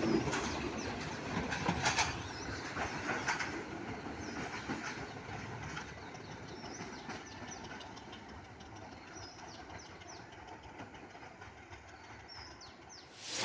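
Diesel-hauled express train running past on the rails, its wheels clicking over the rail joints. The sound fades steadily as the train moves away.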